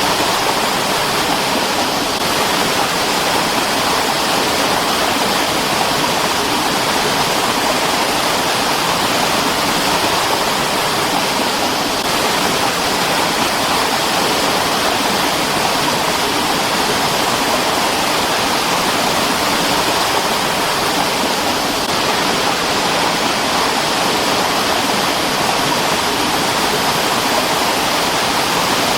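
Mountain stream rushing steadily over rocks: a continuous, even rush of water.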